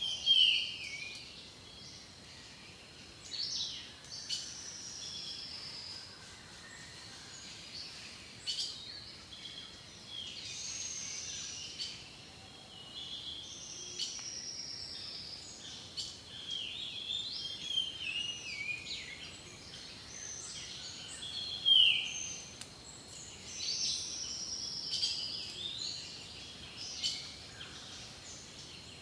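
Jungle birds calling over a faint steady river hiss. One call is a sharp, short whistle sweeping downward, heard at the start, about 19 s in and about 22 s in; another is a longer, high, descending buzzy call repeated every few seconds. A thin, constant high tone runs underneath.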